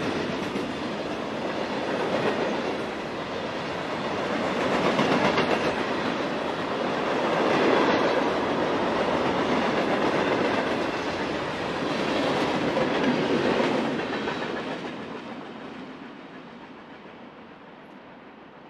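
Covered hopper cars of a freight train rolling past, steel wheels running on the rails with slow swells in loudness. Over the last few seconds the sound fades away as the cars move off.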